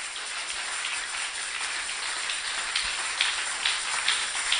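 Congregation applauding: many hands clapping steadily, with a few louder individual claps standing out in the second half.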